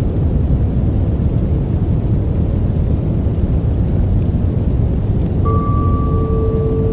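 Steady, deep rushing noise of a sleep white-noise track, heaviest in the low end, with a soft sustained tone coming in about five and a half seconds in.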